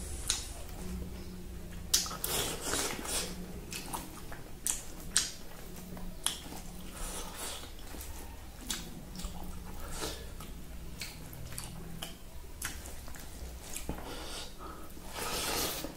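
Close-up eating sounds: a man chewing a rice-and-silkworm meal, with irregular wet smacks and clicks of the mouth.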